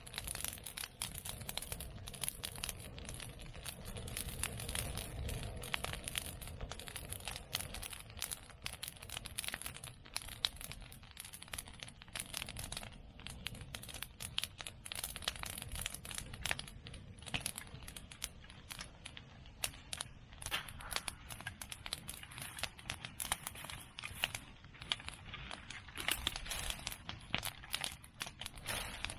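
Open fire of cut medake bamboo and chestnut prunings crackling densely and without pause, with sharper snaps now and then over the low rumble of the flames.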